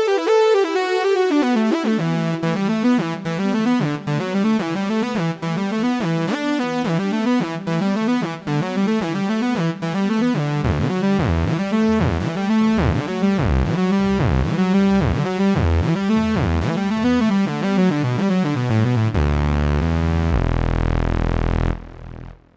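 Roland Fantom-0 synthesizer playing a custom patch: a busy, rhythmic pattern of notes over a pulsing bass line, dying away shortly before the end.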